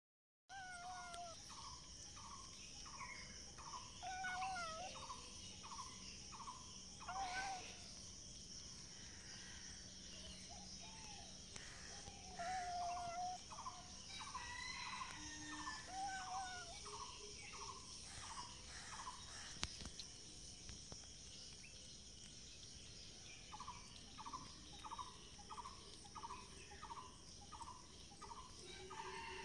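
Outdoor bird calls: runs of short repeated notes, about two a second, and a few lower gliding calls. Behind them is a steady high insect drone.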